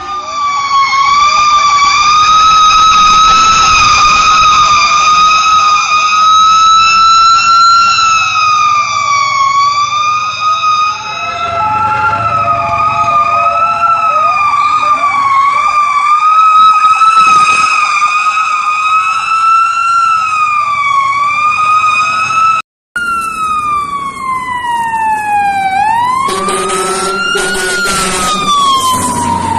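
Fire truck sirens wailing: one siren slowly rising and falling in pitch, then, after a short break about 23 seconds in, a second siren sweeping down, up and down again, with a lower steady tone sounding along with it near the end.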